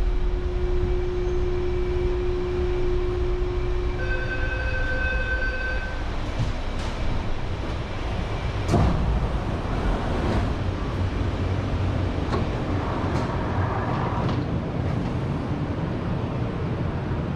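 Taipei Metro Brown Line rubber-tyred train running with a steady low rumble. A steady whine stops about four seconds in, followed by a short tone of several pitches, then a series of clicks and knocks, the loudest near the middle.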